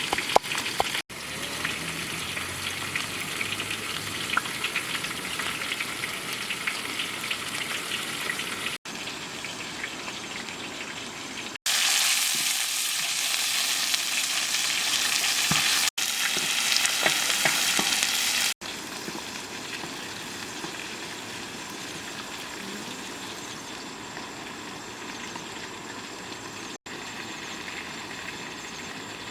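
Fish sizzling as it fries, a steady crackling hiss in several short takes that change abruptly, loudest in the middle stretch.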